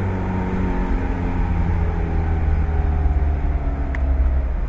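Car engine running steadily, its pitch easing slowly downward.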